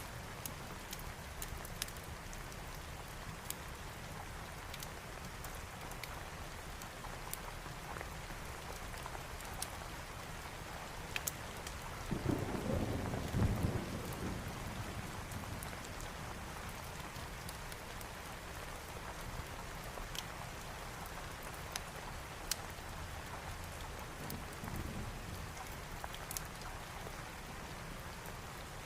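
Steady rain with scattered sharp crackles from a fireplace. A low thunder rumble comes about twelve seconds in and lasts a couple of seconds, and a fainter rumble comes later.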